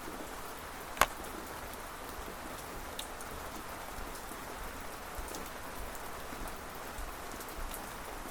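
Steady rain falling, with scattered close ticks and one much louder sharp tick about a second in.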